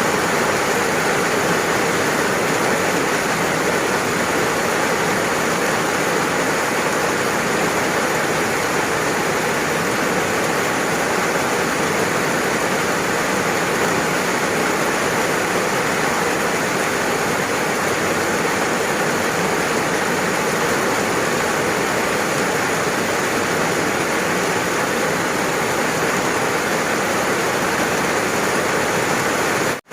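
Steady rainfall, a dense, even hiss of rain with no single drops standing out, with a momentary drop in level right at the end.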